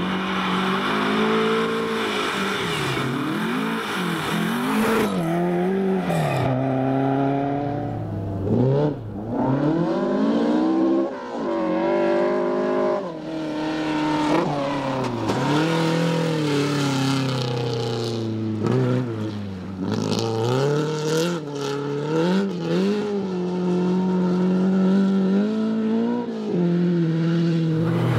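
Rally car engine revving hard, its pitch climbing and dropping again and again as it accelerates, shifts gears and lifts for corners.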